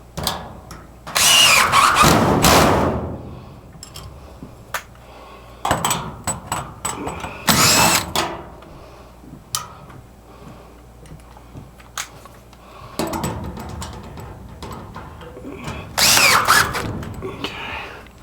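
Power drill running in three short bursts, with scattered clicks and knocks between them.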